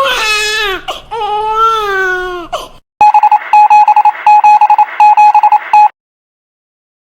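A voice crying in two drawn-out wailing sobs, each sliding down in pitch. Then a loud electronic beeping tone in four short bursts, each with a rapid warble, cutting off sharply.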